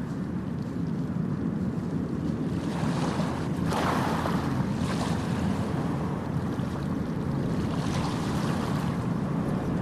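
Ocean waves breaking on a beach: a steady low rumble of surf, with a wave washing in loudly about a third of the way through and smaller washes later.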